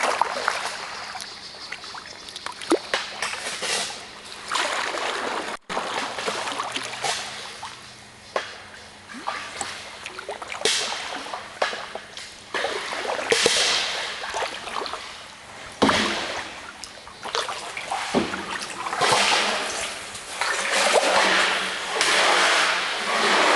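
Kayak paddle strokes splashing and dripping in the water, swelling and fading every second or two.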